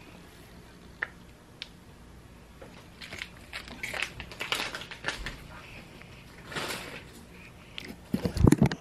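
Soft, irregular crunching and rustling of a child picking shredded cheese off a lasagna and chewing it, with a few louder low knocks near the end.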